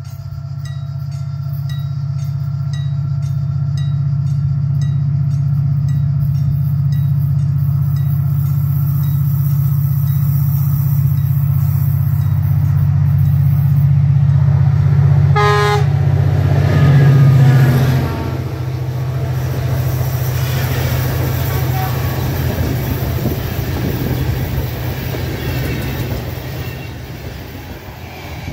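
A diesel train approaches with a steady low engine hum that grows louder, sounds its horn once briefly about fifteen seconds in, and passes with a rattle of wheels and wagons that slowly fades. Faint regular ticking, about two a second, runs under the approach.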